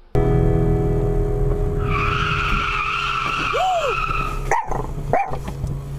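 Car engine running steadily, then tyres skidding and screeching for about two and a half seconds, starting about two seconds in.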